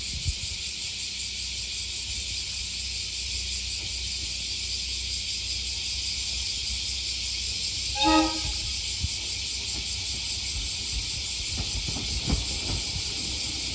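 JR Shikoku 2000 series diesel railcars on the move, with a short horn blast about eight seconds in, over a steady high hiss and low rumble.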